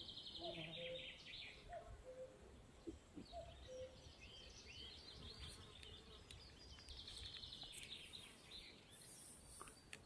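Faint birdsong: high trills near the start and again about seven seconds in, with scattered chirps between. A repeated low two-note call sounds in the first few seconds.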